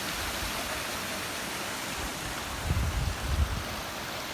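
Steady rushing of a waterfall, with a short low rumble about two and a half seconds in.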